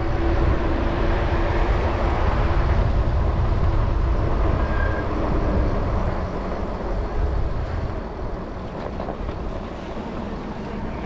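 Wind rushing over the microphone with road traffic noise while riding an electric bike on a road. It is louder for the first six seconds or so, then eases.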